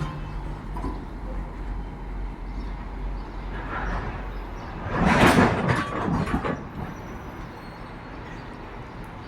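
Railway station ambience beside a standing passenger train: a steady low rumble, with a louder rushing, clattering burst of noise about five seconds in that lasts around a second and a half.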